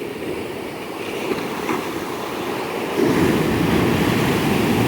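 Ocean surf breaking on a beach, a steady rushing wash that swells louder about three seconds in as a wave crashes. Incoming waves meeting the outgoing backwash make booms here.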